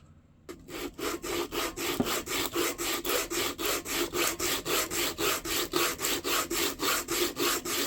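Wooden knife handle scale being sanded by hand with sandpaper in quick, even back-and-forth strokes, about four a second, starting about half a second in, to bring the scale to shape.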